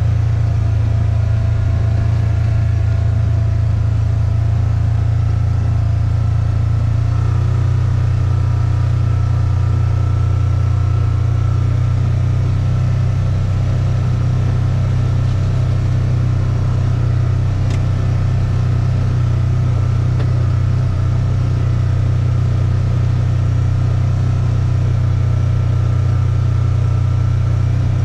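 A steady, loud low engine drone that holds an even pitch throughout.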